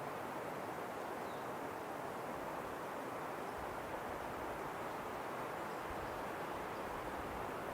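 Wind blowing in a steady rushing hiss, with low gusty rumbles coming and going from about a third of the way in.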